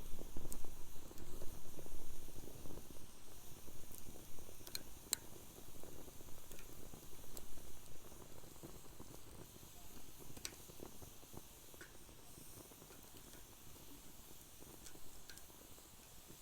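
Wood fire burning in a fire pit, crackling with a few scattered sharp pops over a low rumble that eases off about halfway through.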